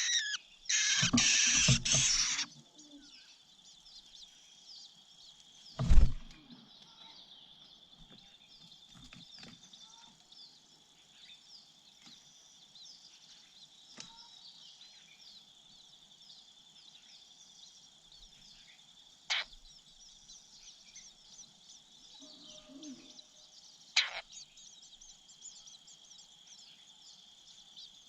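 A steady high insect drone with faint bird chirping, opening with a loud rustling burst in the first two seconds. There is a sharp knock about six seconds in and two smaller clicks later on.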